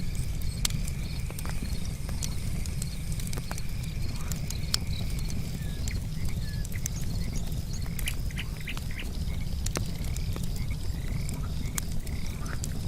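Campfire wood crackling with frequent sharp pops, over night insects trilling steadily and frogs calling in short rising notes, more often in the second half.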